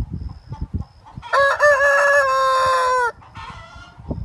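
A rooster crowing once: a single loud call of nearly two seconds, starting about a second in. It wavers at the start, then holds fairly level. Low thudding and rumbling noise runs around it.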